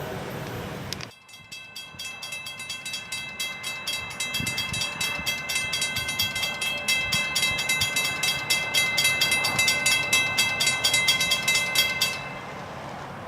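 A railroad bell ringing rapidly and evenly, about four to five strokes a second, growing louder and then cutting off suddenly near the end.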